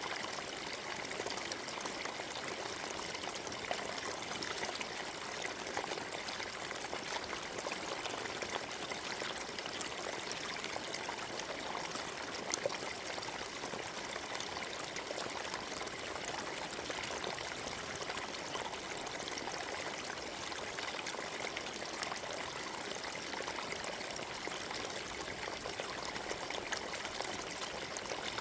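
Forest stream flowing over stones, a steady trickling and splashing babble.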